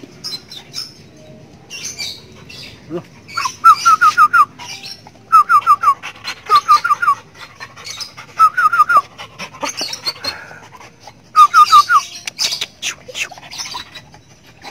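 A bird calling in quick runs of four to six short, falling notes, five runs in all, with scattered clicks and higher chirps between them.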